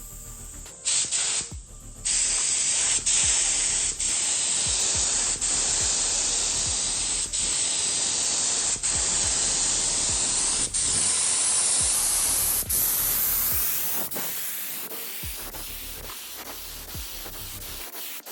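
Paint spray gun spraying in a continuous hiss: a short blast about a second in, then a long steady spray that eases off over the last few seconds.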